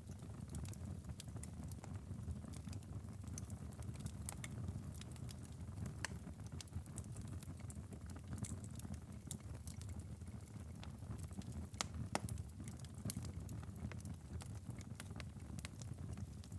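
Wood fire in a fireplace crackling: irregular sharp pops and snaps, a few louder ones about six and twelve seconds in, over a steady low rumble.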